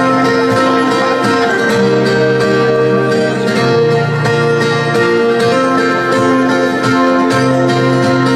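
Acoustic guitar playing an instrumental passage: steady strummed chords with held notes, changing chord every couple of seconds.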